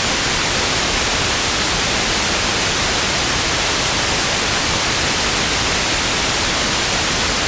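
Television static: a steady, loud hiss with no changes.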